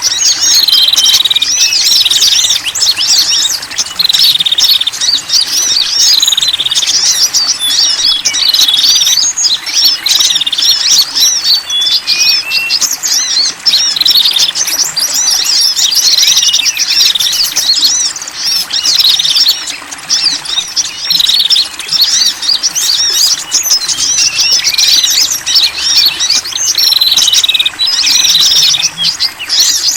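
Dense, unbroken chirping and twittering of several small birds, a bird-lure recording that mixes small-bird calls. A short falling call repeats about every two seconds over the busy chatter.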